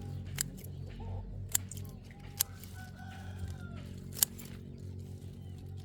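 Chickens clucking over steady background music, with four sharp clicks spread through.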